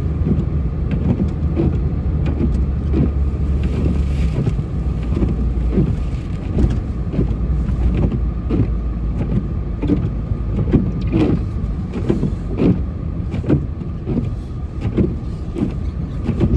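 Plow truck running and driving through snow, a steady low engine rumble with frequent short knocks and clunks.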